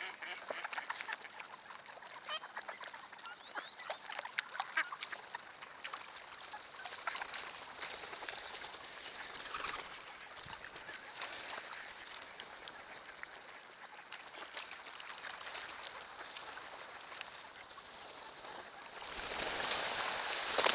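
A large mixed flock of ducks on flooded ground calling without pause, many quacks and chattering calls overlapping. Near the end a louder rushing noise rises under the calls.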